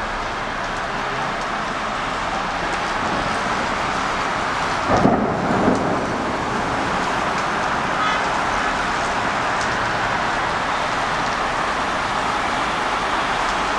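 Steady hiss of heavy rain, with a sudden loud low boom about five seconds in that lasts about a second.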